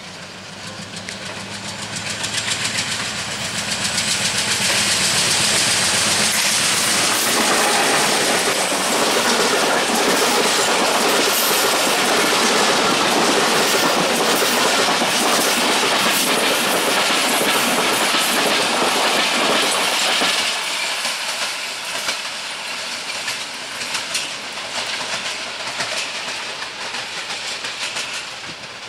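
Diesel-hauled passenger express train passing through at speed. The locomotive's engine hum grows as it approaches, then the loud rumble and clickety-clack of the coach wheels over the rail joints carries on for about fifteen seconds. The sound fades as the train draws away.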